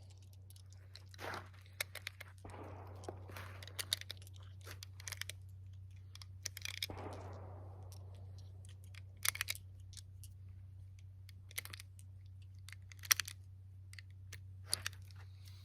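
Faint scattered clicks, taps and rustles of hands handling gear and ammunition, with a steady low hum underneath; no shots are fired.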